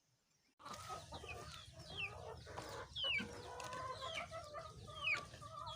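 A flock of chickens calling and clucking, starting abruptly about half a second in after near silence, with high falling calls repeating about once a second over a steady low background.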